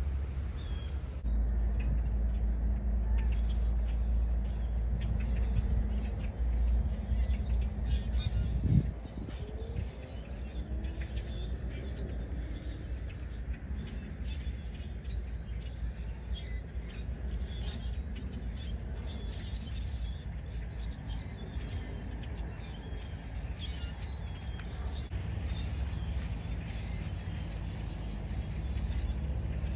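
A flock of small birds chirping with many short, high calls over a steady low rumble; the rumble is louder for the first nine seconds and drops after a brief louder sound.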